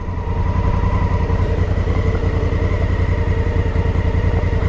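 Motorcycle engine idling steadily, a rapid even low pulsing with a faint steady hum above it.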